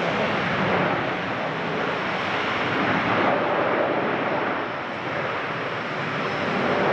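Jet airliner engines running, a loud steady rushing noise that dips slightly about five seconds in and swells again near the end.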